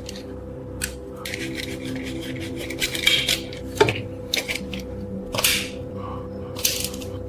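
Short scraping strokes and sharp clicks of hand work on metal, the loudest scrape at about three and a half seconds in, over steady background music.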